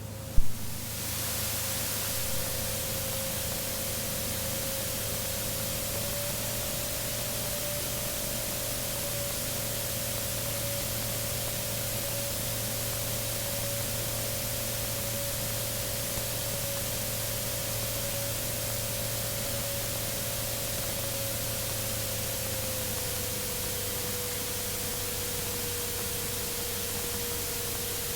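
Steady hiss of static on a recorded aircraft radio and intercom audio feed between transmissions, with a faint steady tone under it that rises slightly in pitch about six seconds in and settles back down near the end.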